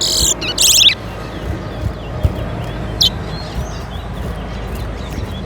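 Caged towa-towa (chestnut-bellied seed finch) singing a fast run of high, rapidly repeated notes for about the first second, one of the songs counted in a song race, then a single short call about three seconds in.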